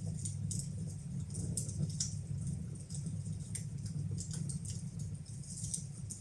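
Fire burning in a fireplace, with frequent irregular crackles and pops over a steady low rumble.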